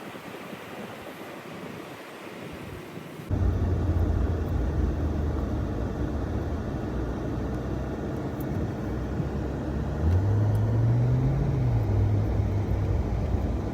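A car driving, with a steady low engine hum and road noise that come in abruptly and louder about three seconds in. About ten seconds in, the engine's pitch rises briefly, then settles again.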